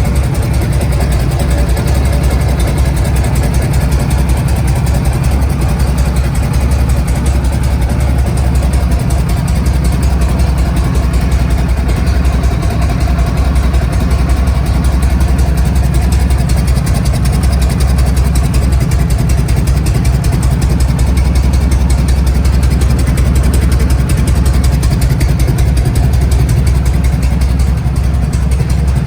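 1976 Harley-Davidson FLH1200's Shovelhead V-twin engine running steadily, a low, even engine sound with no revving.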